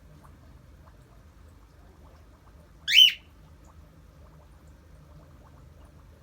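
Cockatiel giving one short, loud flock call about halfway through: a shrill whistle that sweeps up and then drops back down.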